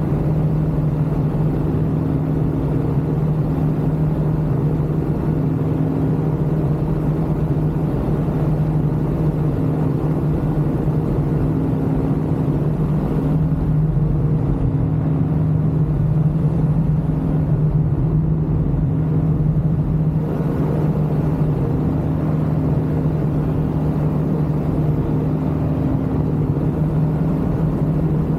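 Ultralight aircraft engine running steadily in flight, a constant loud drone with an airy hiss over it; the hiss eases for several seconds midway.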